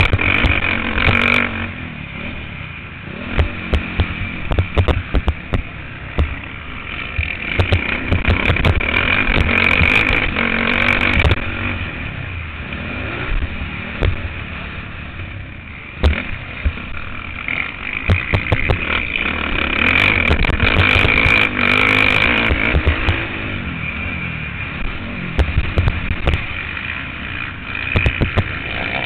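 Motocross bike engine heard on board, revving up and dropping back in long swells as the rider accelerates and backs off around the track, with frequent short knocks from the bike and mount.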